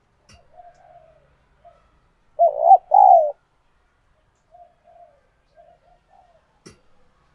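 Spotted dove cooing: soft, low coo notes throughout, with one loud two-part coo about two and a half seconds in.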